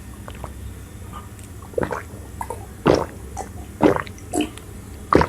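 Close-miked wet eating sounds: chewing and squelchy mouth sounds, a handful of separate short smacks about a second apart.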